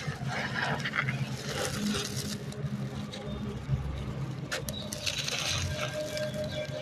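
Dry stony sand-cement pieces being crumbled, a gritty crunching and crackling that comes in uneven bursts, over a low steady hum.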